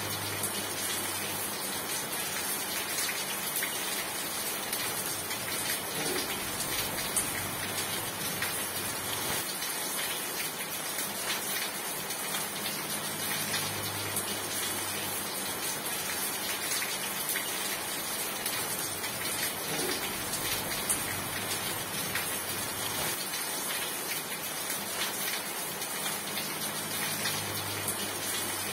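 Steady rain: a dense, even hiss of falling rain with scattered individual drops, unchanging throughout.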